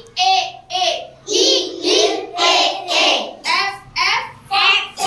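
Children's voices chanting English phonics letter sounds in a steady sing-song rhythm, about two syllables a second.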